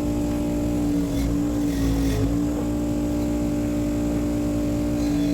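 A machine running steadily with a constant-pitched hum that dips briefly about two seconds in, and faint light clinks over it.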